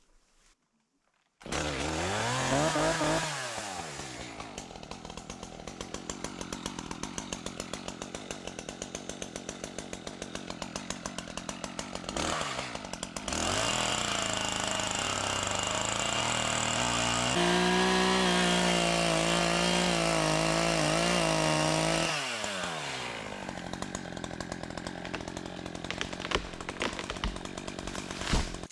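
Gas chainsaw starting, blipped up and back down, then idling with a steady pulse before running at a higher steady pitch for about eight seconds, as in a cut, and dropping back to idle. It cuts off right at the end.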